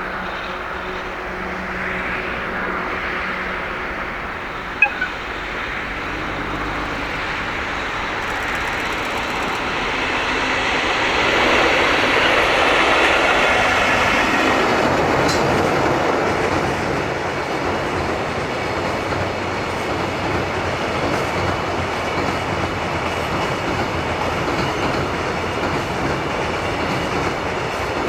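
Freight train hauled by an EF65 electric locomotive passing. The sound grows to its loudest about twelve seconds in as the locomotive goes by, then the wagons follow with a steady rumble and clatter of wheels over the rail joints. A brief sharp sound comes about five seconds in.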